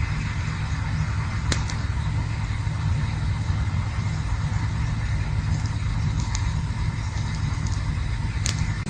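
Campfire burning with soft crackling and a sharp pop about a second and a half in, over a steady low rumble.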